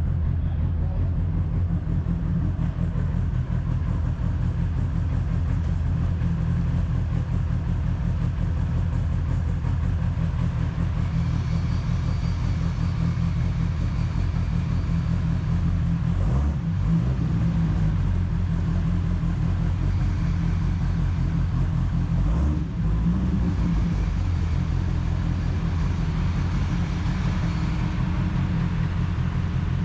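Car engine running steadily while the car is under way, a deep continuous drone with two brief breaks in the note, about sixteen and twenty-two seconds in.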